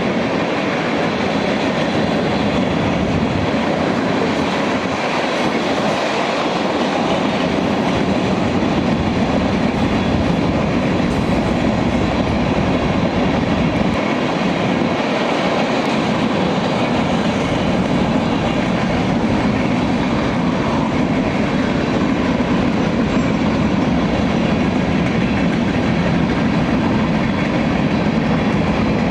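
A train rolling past, its railcars making a loud, steady rumble that holds the whole time.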